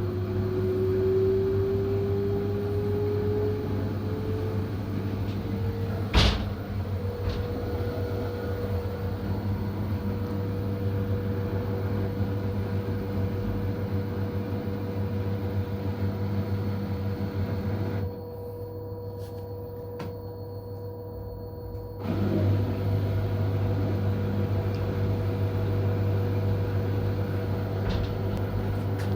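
Front-loading washing machine spinning its drum on freshly replaced drum bearings and seal, a steady drone with a motor whine that rises in pitch over the first six seconds and then holds. A single knock about six seconds in, and the sound drops quieter for about four seconds about two-thirds through.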